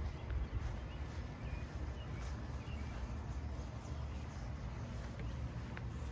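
A few faint bird chirps over a steady low rumble.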